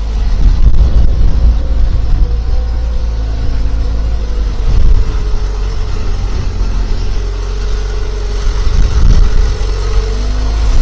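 Skid steer engine running steadily at work, with a low rumble and a pitched whine that sags slightly late on and rises again near the end.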